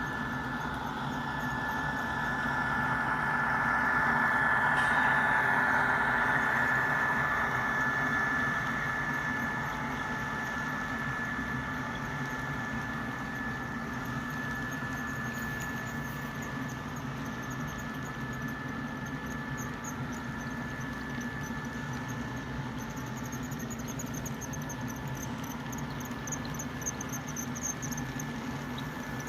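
HO scale model train running on its track: a steady high motor whine over a low hum. It grows louder a few seconds in, then eases to a steady level, with faint rhythmic clicking near the end.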